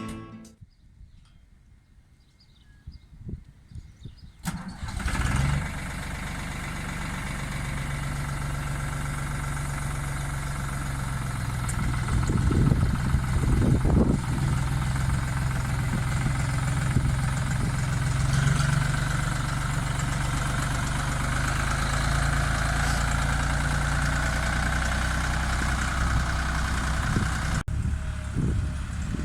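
Same Aster 70 tractor's diesel engine starting up about four seconds in after a few faint clicks, then running steadily at idle with a couple of brief revs in the middle.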